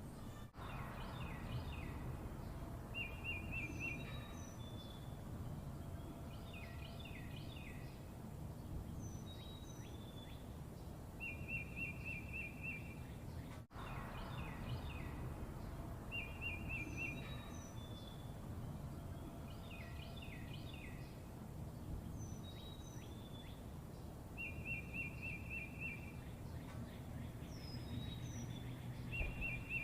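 Birds singing: short buzzy trills, runs of falling chirps and thin high notes, repeating in the same order every few seconds, over a steady low background rumble. There are two very short dropouts in the sound.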